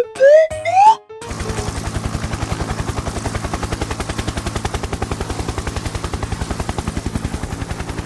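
Cartoon sound effects: a few quick rising whistle-like glides, then a steady, rapid mechanical rattle of about ten even beats a second.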